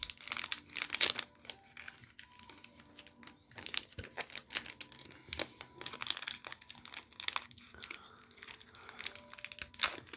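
Foil booster-pack wrapper crinkling as it is handled, in quick irregular crackles.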